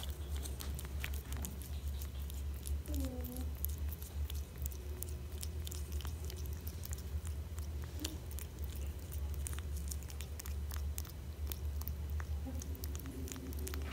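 A kitten licking and chewing at a small cup of sauce, a run of quick wet little clicks, over a steady low hum.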